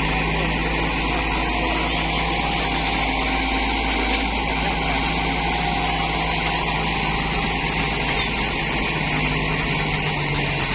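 Tractor engine running steadily with a constant low rumble and a steady hum, no change in speed.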